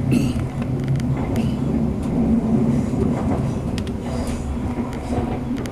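Class 185 diesel multiple unit under way, heard from inside the carriage: the underfloor diesel engine's steady drone, with short clicks and rattles from the wheels and coach body.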